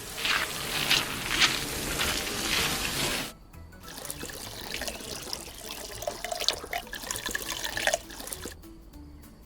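Water pouring and trickling, strongest for the first three seconds, then fainter with small scattered clicks.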